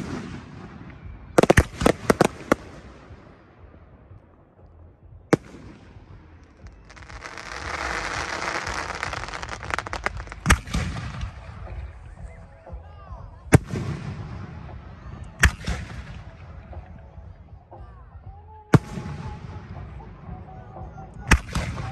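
Aerial fireworks bursting in the sky with sharp bangs. A quick cluster of several cracks comes early, then single reports every few seconds. A dense hissing, crackling spray lasts about three seconds a third of the way in.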